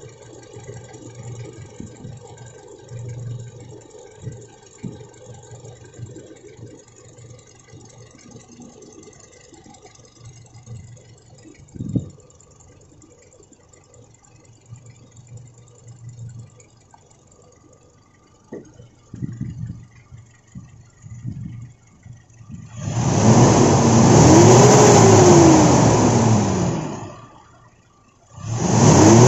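Toyota Innova's 1TR four-cylinder petrol engine idling steadily, then revved hard twice near the end, its pitch climbing and falling back each time, during a check for a misfire.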